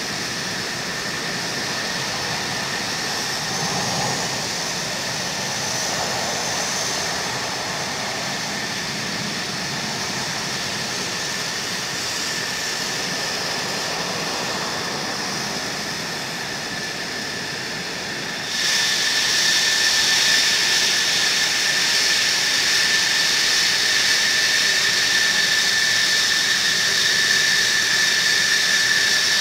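F-16 fighter jet's engine idling during hot pit refuelling: a steady jet rush with a high, steady whine. About two-thirds of the way in the sound suddenly becomes louder and brighter, then holds steady.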